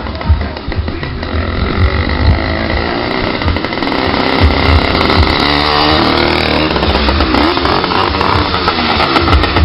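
80cc two-stroke motorized-bicycle engine running loud with the baffle removed from its exhaust. It grows louder over the first few seconds, and the revs shift up and down around the middle.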